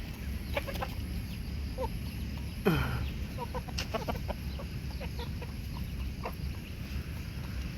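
Backyard chickens and young roosters clucking softly in short scattered calls, with one louder call falling steeply in pitch about three seconds in.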